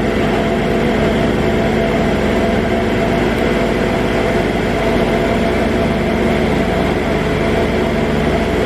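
An engine idling steadily nearby, a constant hum with several steady tones.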